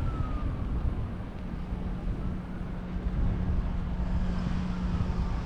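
Street and wind noise heard while riding a bicycle: a low rumble with a steady hum. A faint falling tone sounds near the start and again near the end.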